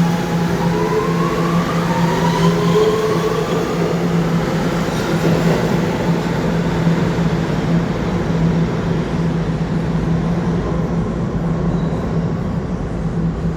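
New York City subway train running through the station with a steady loud rumble and hum, and an electric motor whine rising in pitch during the first few seconds.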